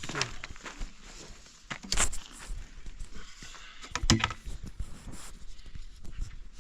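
Scattered knocks and clicks, with two louder knocks about two and four seconds in.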